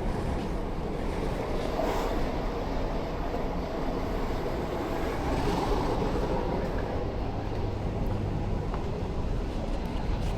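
Steady running noise of a passenger train in motion, heard from inside the carriage.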